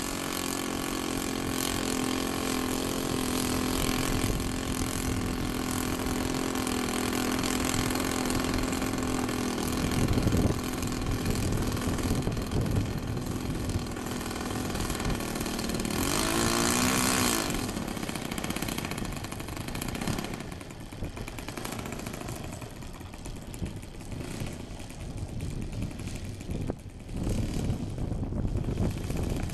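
YS 110 supercharged four-stroke glow engine of an RC model plane idling steadily, with a brief rise and fall in pitch about halfway through. After that the sound turns noisier and less even.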